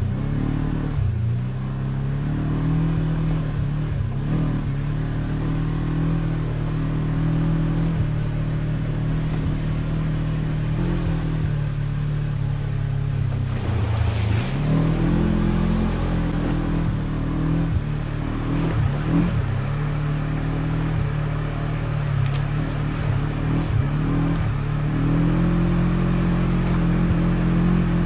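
A vehicle engine running steadily at a constant pitch. The pitch dips briefly and recovers about a second in, and again about halfway through.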